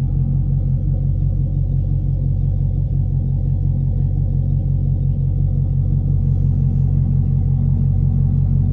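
Straight-piped 2023 Chevrolet Camaro 2SS's 6.2-litre V8 exhaust running steadily, a deep low note with no revving.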